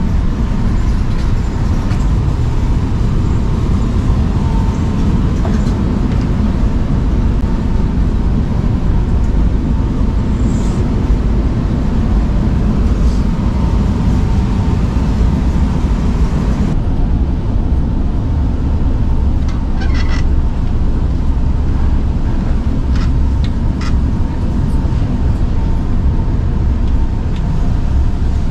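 Double-decker passenger train running, a steady low rumble of wheels on the rails heard from inside the coach. The higher hiss drops away suddenly about two-thirds of the way through, and a few short clicks follow.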